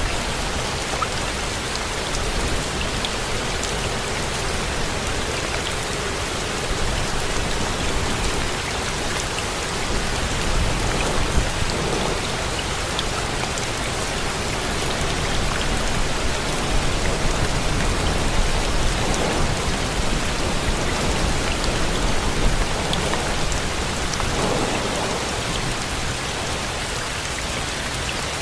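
Steady rain falling, with scattered drops ticking through it. Low thunder rumbles swell several times, starting about ten seconds in.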